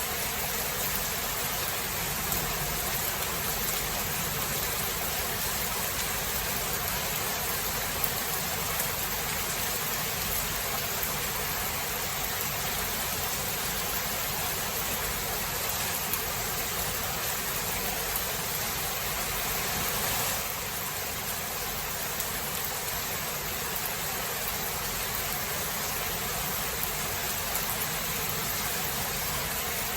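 Steady heavy rain of a thunderstorm: an even hiss with faint scattered drop ticks, dipping slightly in level about twenty seconds in.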